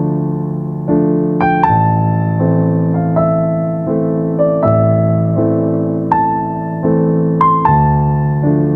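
Slow, gentle piano music: single notes and chords struck and left to ring and fade, a new one about every second.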